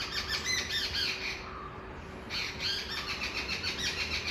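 A bird chattering in rapid squawks and chirps, in two bouts with a pause of about a second between them.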